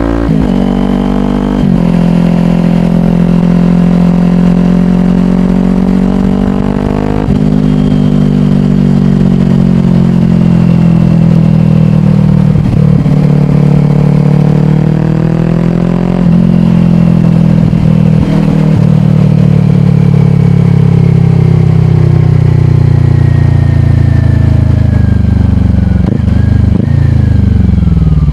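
2022 Kawasaki Ninja 400's parallel-twin engine through a slip-on exhaust, shifting up twice in the first several seconds with a sudden drop in pitch at each gear change. It then runs under steady load while the engine note slowly falls as the bike eases off.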